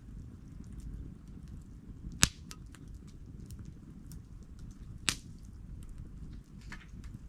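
Wood campfire burning with a steady low rumble and faint scattered crackles, broken by two sharp loud pops from the burning wood, a bit over two seconds in and again about five seconds in.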